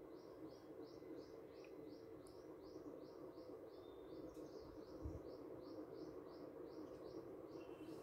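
Faint, fast series of high bird chirps repeated evenly, about three a second.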